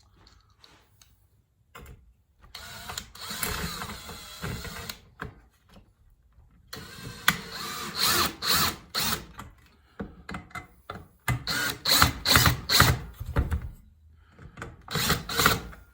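Power drill/driver running in several short bursts as it drives long headlight adjuster screws into their tight-fitting pockets, with clicks between the bursts.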